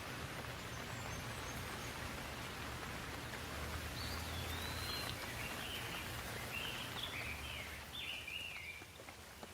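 Steady rain falling, a continuous even hiss with a low rumble underneath. From about four seconds in, a bird calls in a run of short chirping phrases.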